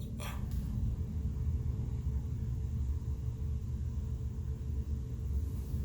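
Steady low background rumble with a faint steady hum, and one short faint click about a third of a second in.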